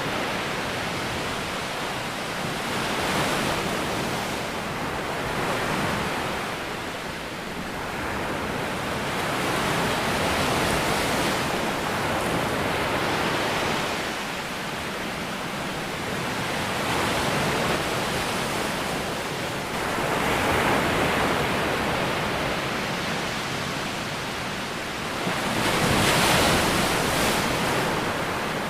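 Ocean surf: a continuous rush of waves breaking on a shore that swells and fades every few seconds, with the biggest wave near the end.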